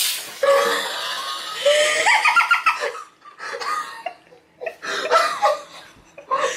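Two people laughing and giggling in fits, after soda has sprayed out of a marble-sealed bottle; a short hissing spray of fizz tails off in the first half-second.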